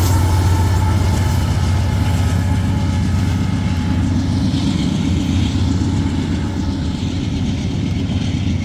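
Freight train cars rolling past with a steady low rumble that slowly fades. A faint high wheel squeal dies away in the first few seconds.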